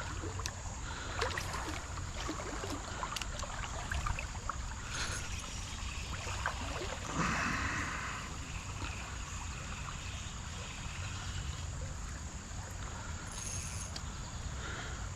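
Creek water moving and splashing around a wading angler, with scattered clicks and handling noises from an ultralight spinning reel and rod. A brief louder splash comes about halfway through.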